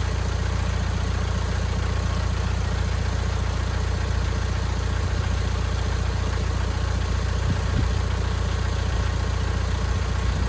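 A car engine idling steadily, the car supplying the jump-start through jumper cables.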